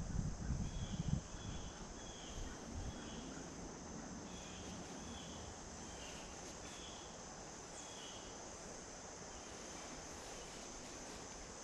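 Insects droning steadily in late summer, with a short chirp repeated about once or twice a second over much of it. Some low rumbling in the first second.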